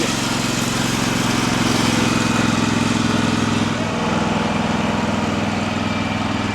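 Vehicle engine running steadily, heard from inside the cab; its note shifts slightly about four seconds in.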